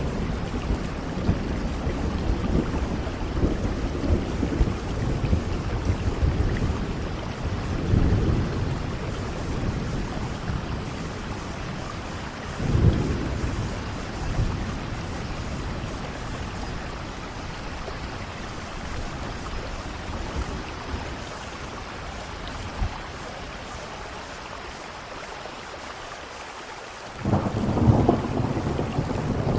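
Steady heavy rain with rolling thunder: low rumbles swell about 8 and 13 seconds in, the storm eases for a while, then a loud clap of thunder breaks in near the end.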